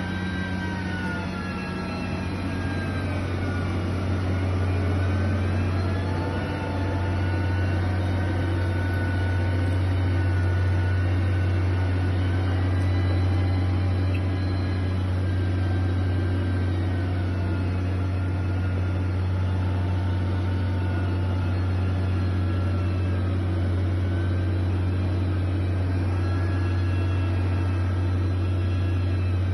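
Steady low drone of a heavy engine, with faint high whines that slowly rise and fall in pitch.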